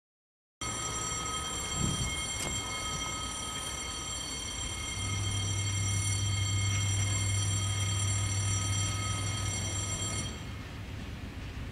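A distant railcar approaching along the line, heard with several steady high-pitched tones and, from about halfway, a low steady hum; the tones and hum cut off about ten seconds in.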